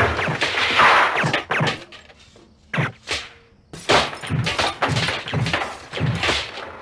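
Movie sound effects of a hail of silenced gunfire: a rapid, irregular run of muffled shots and bullet strikes, with thuds, smacks and shattering.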